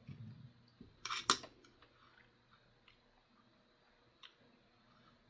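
Nickels clicking against each other as they are handled, with a pair of sharp clicks about a second in and a few faint ticks after.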